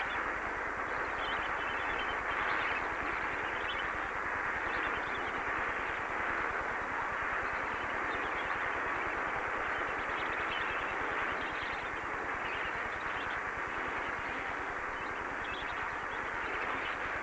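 A large flock of lesser flamingos calling during their mass courtship display: a dense, steady din of many overlapping calls.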